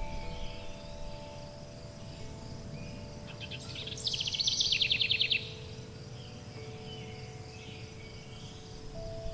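Forest songbirds calling, with one loud, fast trill from about three and a half to five and a half seconds in. Soft, long-held chime tones sound underneath, over a low steady noise bed.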